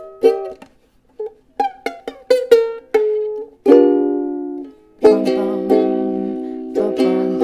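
Ukulele played by a first-time player: a few picked notes and chords with short pauses between them, then steady strummed chords from about five seconds in.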